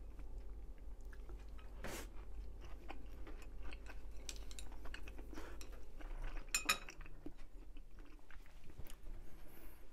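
A person chewing a mouthful of tentsuyu-dipped oyster tempura close to the microphone, with scattered small mouth clicks and a louder clack about two-thirds of the way through.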